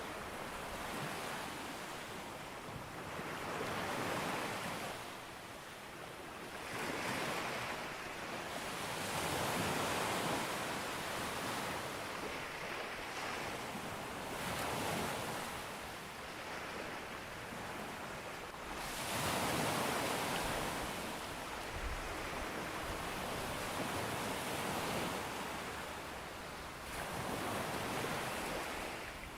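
Ocean waves breaking on a beach and washing up the shore, a new swell of surf rising and falling every few seconds.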